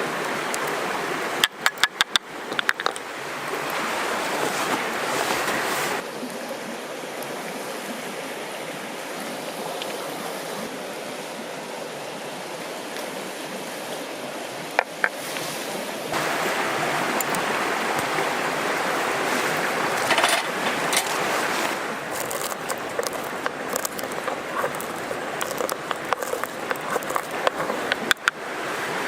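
Steady rush of a flowing river, with scattered sharp clicks and knocks from handling close by, in quick runs about two seconds in and again near the end. The water sound steps abruptly louder and quieter a few times.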